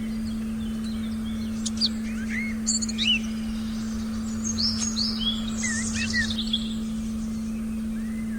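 Forest birds chirping and whistling in quick overlapping calls, busiest in the middle, over a steady low electronic tone.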